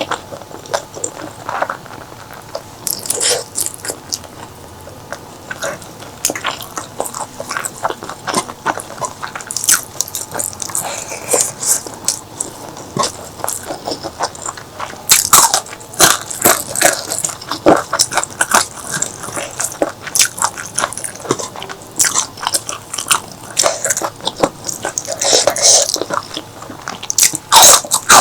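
Close-miked eating: a person biting and chewing food with wet mouth clicks and smacks, in an irregular stream that grows busier and louder about halfway through.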